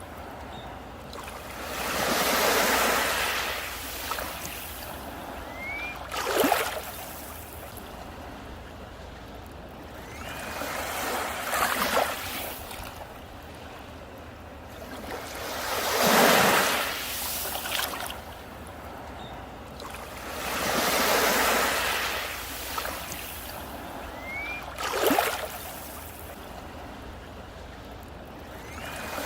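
Sea waves breaking and washing up a beach: about six surges of rushing water a few seconds apart, some swelling slowly and some ending in a sharper splash.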